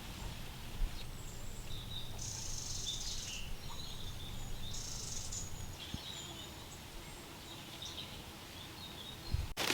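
Birds chirping and calling in short, scattered snatches, with two longer high trills, over a steady low outdoor rumble.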